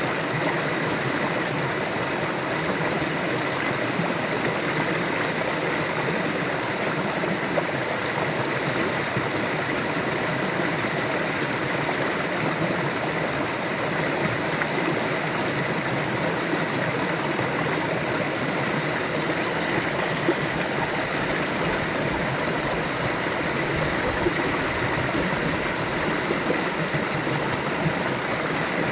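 River water flowing and rushing over rocks, a steady unbroken stream noise.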